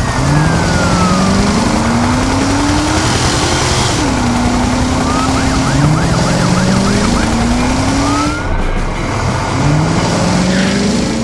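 Vehicle engine revving up in repeated rising sweeps, with a brief fast-warbling siren about halfway through.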